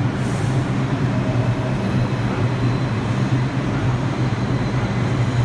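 R142 subway train pulling out of the station, its traction motors and equipment giving a steady low hum under wheel noise, with a faint high tone from about two seconds in. A brief hiss comes right at the start.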